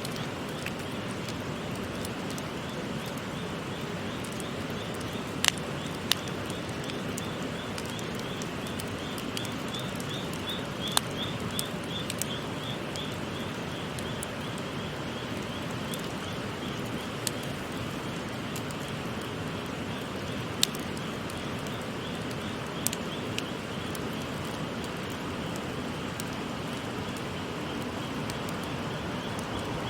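Wood campfire crackling, with a handful of sharp pops, over the steady rush of a babbling stream. A rapid series of high chirps runs through the middle.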